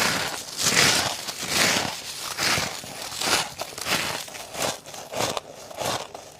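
Powdery freezer frost crunching in a steady run of crunches, a little more than one a second.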